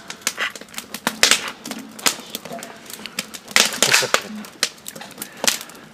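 Wood fire crackling and popping under a shashlik grill, with irregular sharp snaps, some louder than others.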